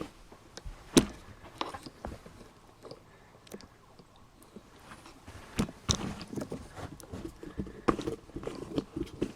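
Irregular knocks, clicks and rustling, the sharpest knock about a second in and a busier patch of knocks and rustles in the second half.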